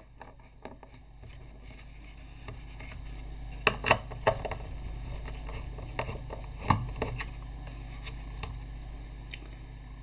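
Hands handling pieces at a small CNC router: a few sharp knocks with light scraping and tapping, over a low steady hum.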